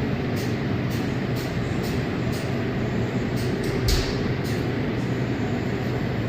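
Car wash tunnel air dryers blowing steadily, a rush of air over a deep hum. A run of sharp ticks comes about twice a second through the first four seconds or so, with a louder thump about four seconds in.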